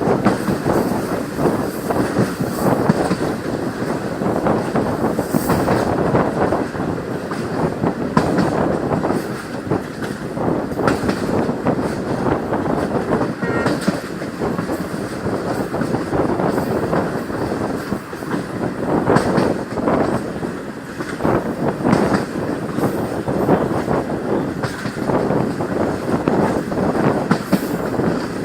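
Indian Railways passenger train running along the track: a continuous rumble and rattle of wheels on rails with frequent clatter.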